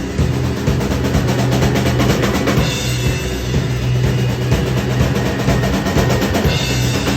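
Indie rock band playing live: a drum kit drives a steady beat of kick and snare over sustained bass notes and guitar.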